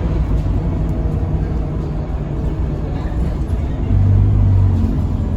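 Interior sound of a Scania K310UB city bus on the move: the Scania DC9 five-cylinder diesel and road noise as a steady low rumble. About four seconds in, the engine drone grows louder and deeper for about a second.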